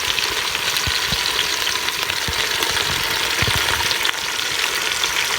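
Oil sizzling steadily in a cooking pot as biryani ingredients fry, with a few soft low knocks of stirring.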